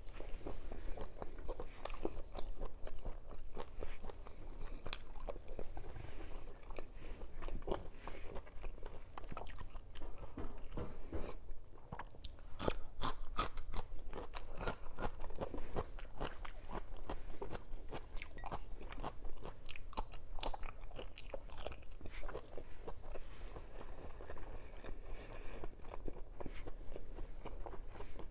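Close-miked eating sounds: chewing and biting through longganisa sausage and rice eaten by hand, with many small crisp crunches that are thickest around the middle.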